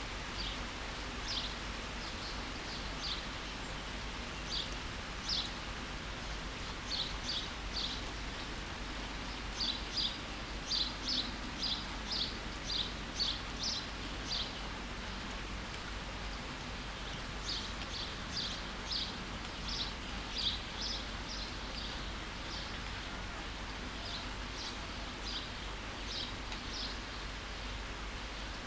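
Steady rain hiss with a bird repeating short, high chirps several times a second, in two long runs with a brief pause between them.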